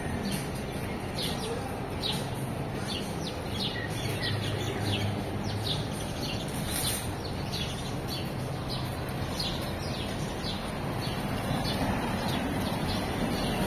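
Small songbirds chirping, short repeated chirps about twice a second that fade near the end, over a steady low hum of city traffic that grows louder late on.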